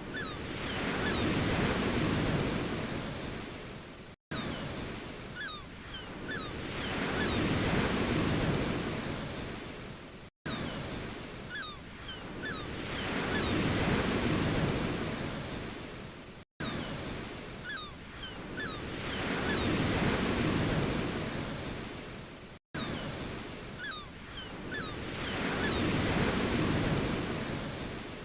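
Ocean waves washing in, one swell rising and falling about every six seconds. Each swell is cut off by a brief dropout, the same short recording repeating on a loop.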